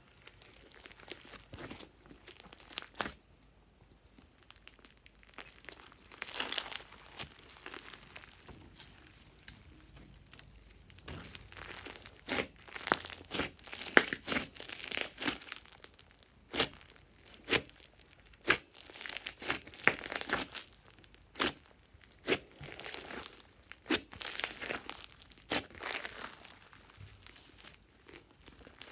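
Glossy slime being worked by hand, crackling in uneven bursts with many sharp clicks. There is a quieter stretch about three to six seconds in.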